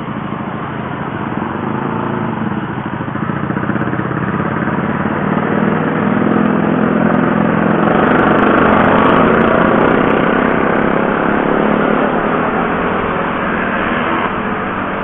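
Honda CB150R's single-cylinder engine running as the motorcycle pulls away through traffic and picks up speed, growing louder toward the middle, with rising road and wind noise.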